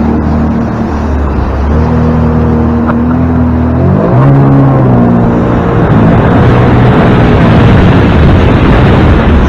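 A boat's engine running under way, its pitch holding steady, then shifting and gliding about four seconds in. A loud rushing noise builds over the second half.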